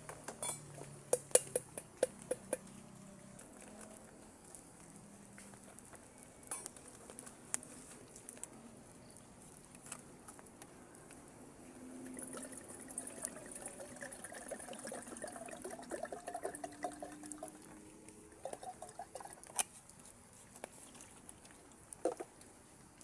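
Scattered sharp clicks and clinks of camp cookware being handled over a faint watery patter. From about twelve seconds in, water is poured into a container for several seconds, its tone slowly rising.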